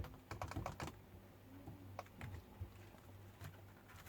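Light clicks and taps of multimeter test probes being set against the terminals of a microwave's high-voltage transformer to measure its secondary winding: a quick cluster under a second in, then a few scattered taps, over a low steady hum.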